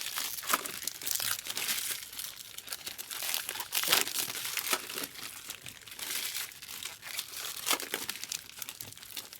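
Foil wrappers of baseball card packs crinkling and tearing as packs are ripped open and handled, in irregular bursts.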